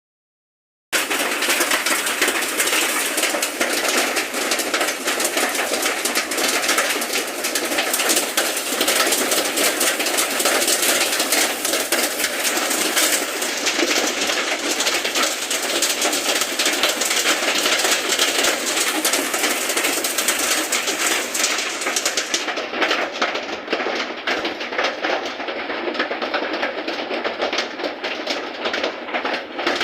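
Rain and hail falling hard: a loud, dense patter of countless small impacts. The sharp hiss on top drops away about three-quarters of the way through, though the patter goes on.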